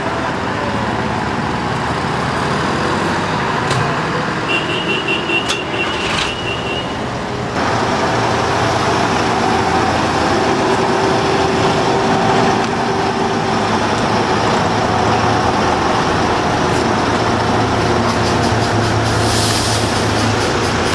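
Engines of vintage trucks running steadily as the lorries pass, getting louder about seven seconds in. A short, rapidly pulsing high beep sounds around five seconds in, and a brief hiss comes near the end.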